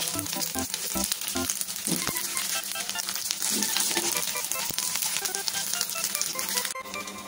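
Macaroni and egg sizzling in a hot frying pan as they are stir-fried with a wooden spatula, a dense crackling hiss. The sizzling cuts off suddenly near the end, while light background music with short notes carries on.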